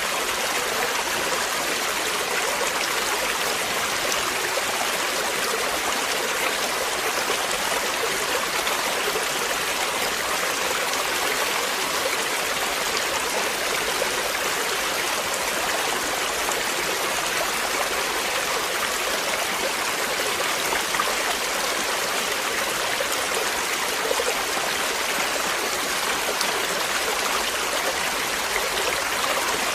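Flowing water running steadily, a continuous even rush like a stream or small waterfall.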